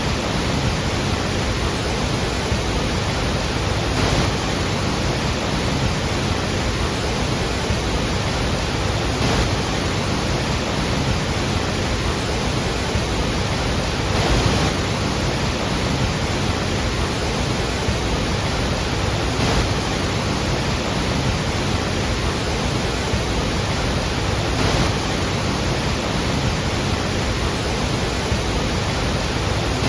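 Iguazu Falls: the steady, dense roar of a large waterfall's falling water, with faint brief swells about every five seconds.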